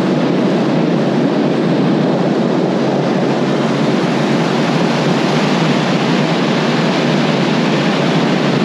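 Steady, loud rushing noise of wind and water, with no engine tone or speech in it.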